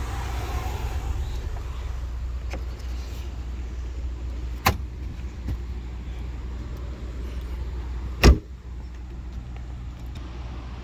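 Covers or panels on a car being handled: a sharp knock about four and a half seconds in and a louder thump about eight seconds in, over a steady low hum.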